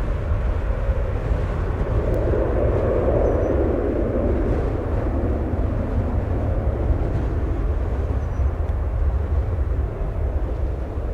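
Wind buffeting the microphone as a low, fluttering rumble, with a jet airliner's engine noise swelling about three seconds in and then fading.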